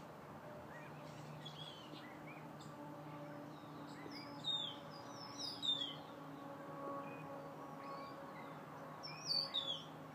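Small birds chirping: clusters of short, high, falling notes about four to six seconds in and again near the end, over a faint steady hum.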